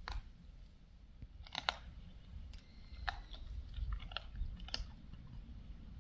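Pig cracking fallen wild peach pits between its teeth and chewing: a handful of sharp cracks, the loudest about a second and a half in, with duller chewing between.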